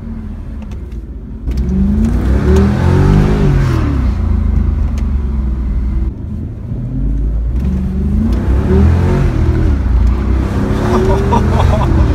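Mercedes-Benz CL63 AMG's V8 heard from inside the cabin, accelerating hard: the engine note climbs about a second and a half in, eases off around six seconds, then climbs again.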